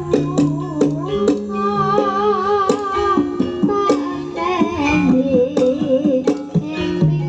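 A young sinden singing a Sundanese song with wavering ornamented melody lines, over instrumental accompaniment with plucked strings and regular struck notes.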